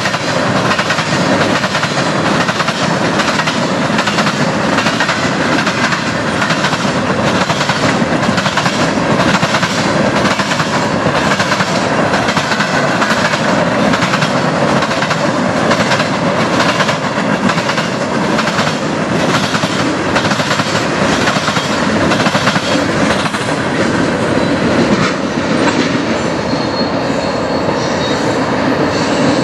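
Freight train of tank cars rolling past: a steady rumble of steel wheels on rail, with repeated clacks as the wheels cross track joints and a faint wheel squeal at times.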